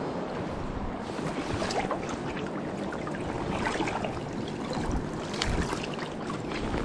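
Steady rush of river water, with a few short splashes and knocks about two, four and five seconds in.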